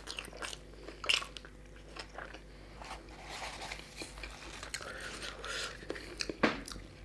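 Close-miked chewing and biting of chicken curry and puri, with puri torn by hand. There are scattered sharp clicks, the loudest about a second in and near the end.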